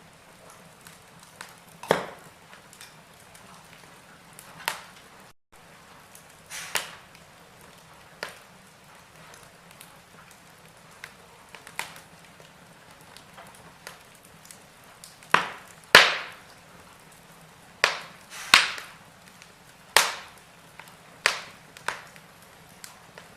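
Wood fire in a fireplace crackling: sharp, irregular pops and snaps over a low steady hiss, with a run of louder pops about two-thirds of the way in.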